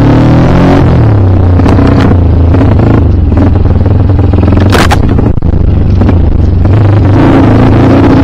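Dirt bike engine revving up and down under throttle, loud and close. A short hiss or scrape cuts through about five seconds in.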